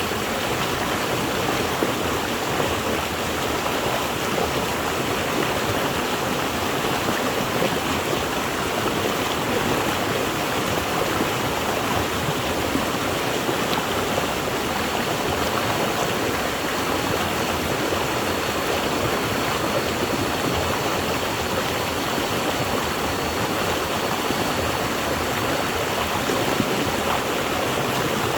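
Water flowing steadily in a stream or small waterfall, an even rushing sound.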